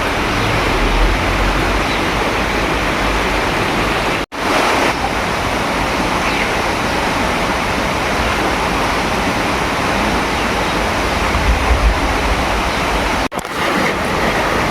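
Steady hiss of heavy monsoon rain, cutting out for a split second twice, about four seconds in and near the end.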